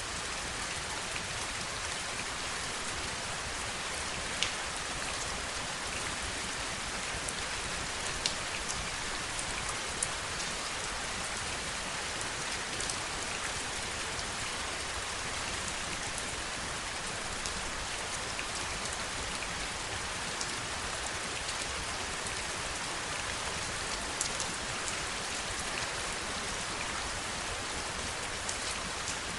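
Steady heavy rain, a constant hiss of falling water with a few sharper single drop hits standing out now and then.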